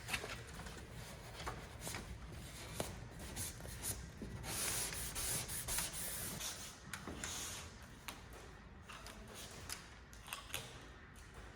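Vinyl graphics being rubbed down and handled by hand: scattered light taps and clicks, with a louder hissing rub about four and a half seconds in that lasts about two seconds.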